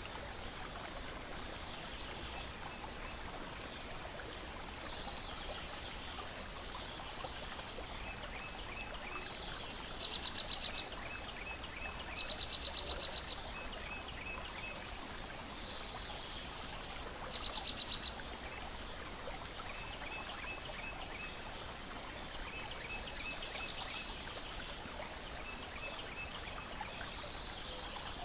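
Steady wash of lake water lapping, with birds calling over it: three loud, rapid high trills about ten, twelve and seventeen seconds in, and softer short chirps in quick groups repeating throughout.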